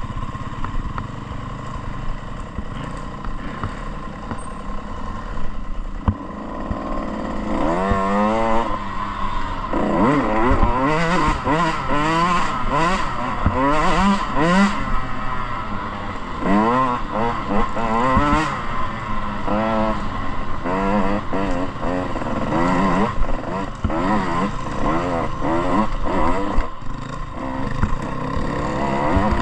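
Dirt bike engine running at lower, steadier revs for several seconds, then from about eight seconds in revving up and down over and over in quick rises and falls.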